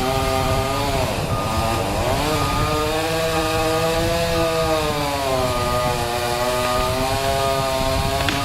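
Chainsaw running under load while pruning branches, its engine pitch sagging sharply about a second in, then rising and falling as it cuts.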